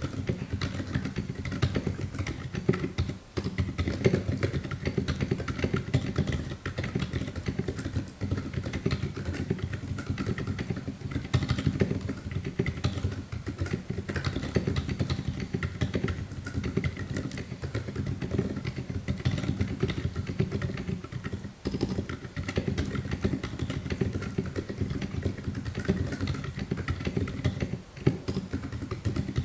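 Fast, continuous typing on a Mün mechanical keyboard prototype with gasket-mounted plates, keystrokes clattering in a dense, deep-toned stream. There are brief pauses about three seconds in and again near the end.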